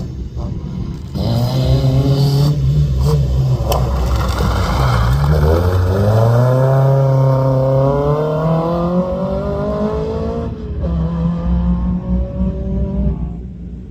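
Rally car engine under hard acceleration. Its pitch climbs steadily for several seconds, drops sharply at a gear change about ten seconds in, then runs steady.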